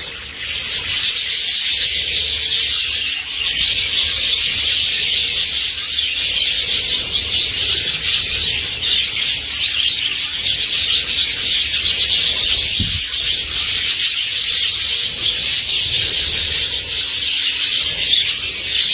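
Many budgerigars in a large colony chattering and chirping at once, a dense, steady, high-pitched wash of warbling.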